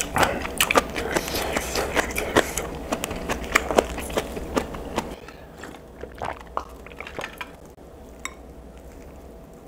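Close-miked wet chewing of a mouthful of food, with dense smacking and crunching for about the first five seconds. After that it turns quieter, with only a few smacks, and a single light click comes near the end.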